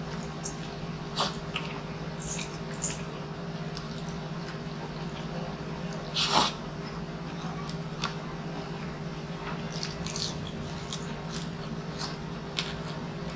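Close-miked eating sounds: a man chewing rice and meat, with scattered lip smacks and mouth clicks and a louder wet bite about six seconds in, over a steady low hum.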